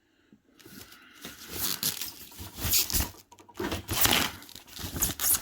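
Packaging being pulled off and handled, crinkling and rustling in irregular bursts after a brief quiet start.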